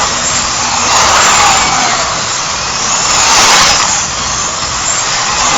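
Several 4-inch stock slot cars lapping the track, their small electric motors and gears whining. The whine rises and falls in pitch and loudness about every two and a half seconds as the cars sweep past and away.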